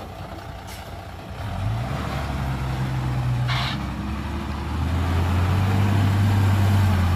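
Heavy dump truck diesel engine running, its pitch and level rising about a second and a half in and louder again in the second half. A short hiss cuts in around the middle.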